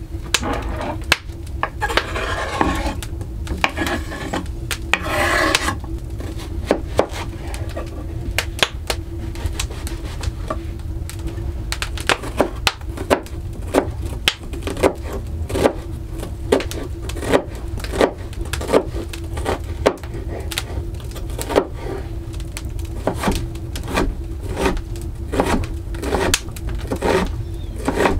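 Repeated short knocks and scrapes of kitchen utensils on wood and dishes, coming about one to two a second through the second half, over a steady low hum.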